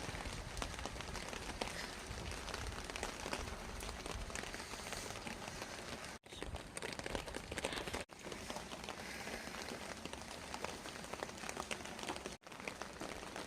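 Steady rain falling: a dense patter of drops. It cuts out briefly three times, where short clips are joined.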